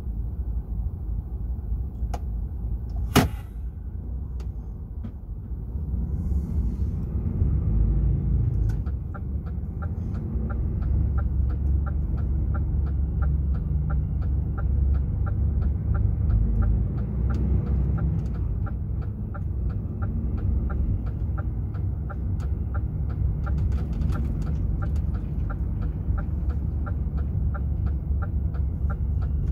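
DAF XF 480 truck's six-cylinder diesel running with a steady low rumble heard inside the cab, with one sharp click about three seconds in. From about nine seconds a steady ticking of the indicator relay starts, about three ticks a second.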